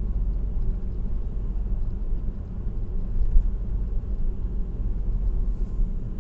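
Steady low rumble of road noise from a car driving on an expressway.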